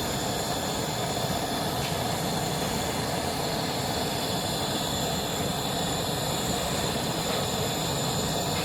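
Steady mechanical running noise with a constant high-pitched whine over it, unchanging throughout.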